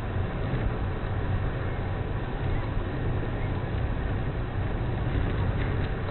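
Steady engine and road rumble of a car driving, as picked up by a dashboard camera inside the cabin.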